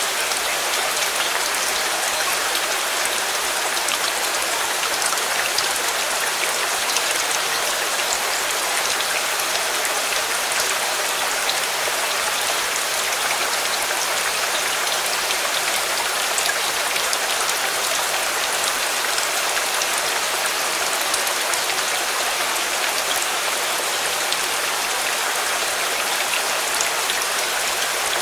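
Steady rain falling: an even hiss with many small, sharp drop ticks scattered throughout, unchanging in level.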